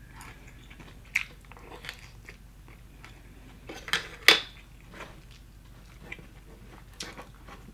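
Close biting and chewing of crispy Popeyes fried chicken: scattered crunches of the coating, the loudest a little past four seconds in.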